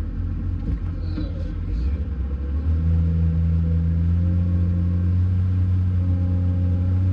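John Deere 544K wheel loader's diesel engine running, stepping up from a low idle to a higher, louder steady speed about two and a half seconds in.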